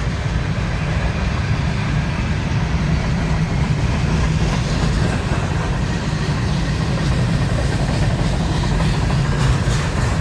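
Long train's cars rolling past on the rails, a steady low rumble as the train picks up speed.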